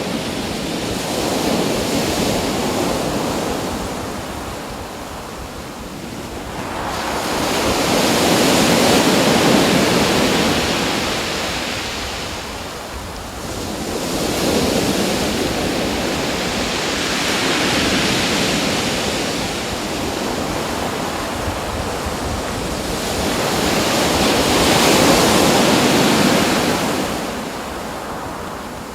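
Ocean surf: waves breaking and washing ashore, the rush of water swelling and ebbing in slow surges every few seconds.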